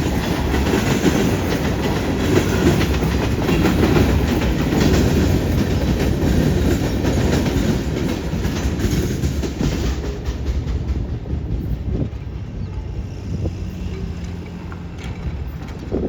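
A CN freight train's cars rolling past, the wheels clattering over the rail joints and switch. Over the second half the rumble thins and fades as the train moves away.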